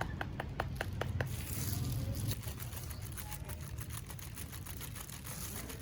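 A quick run of sharp clicks, about five a second, fading into fainter ticks, over a steady low rumble.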